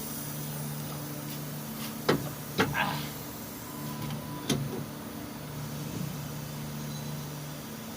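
A steady low hum that drops out now and then, with three sharp knocks: two about half a second apart, a brief ringing after the second, and a third about two seconds later.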